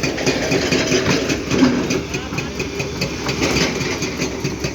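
Heavy vehicle engine running steadily at a low idle-like rumble, with faint clicks over it.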